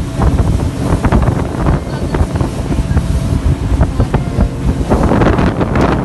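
Wind buffeting the microphone during a fast ride on the water, over the steady running of a jet ski engine.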